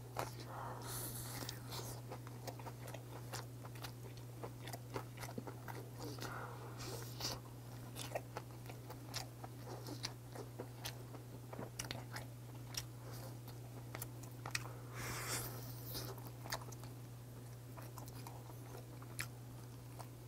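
Close-up chewing and biting of boiled pheasant meat torn from the bone by hand, with many small wet mouth clicks and smacks. A steady low hum runs underneath.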